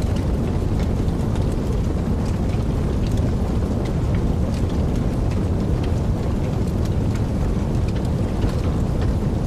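Wood fire burning in a fireplace: a steady low rushing with many small, sharp crackles and pops.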